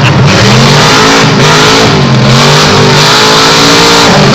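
Several demolition derby trucks' engines revving, loud, their pitches rising and falling over each other as they accelerate and back off.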